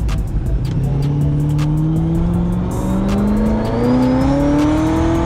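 Supercharged Corvette V8 accelerating: the engine note climbs steadily with a high supercharger whine rising alongside it, then drops sharply near the end as the automatic transmission shifts up. Scattered sharp ticks sound over it.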